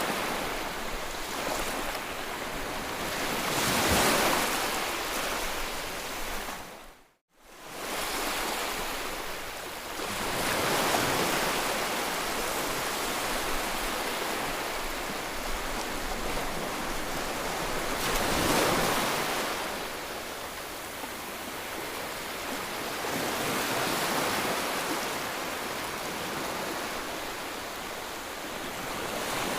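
Waves washing in, a steady rush of water noise that swells and eases every several seconds. About seven seconds in, the sound fades out to silence for a moment and comes straight back.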